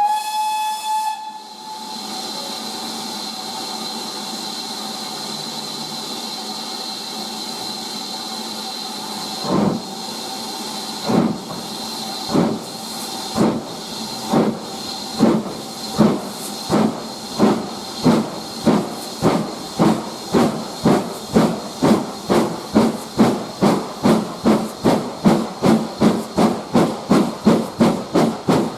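BR Standard Class 4 tank locomotive 80151 sounds a short whistle, then stands hissing steam. About nine seconds in its exhaust beats begin, slow and widely spaced at first, then quickening steadily as the engine pulls away and gathers speed.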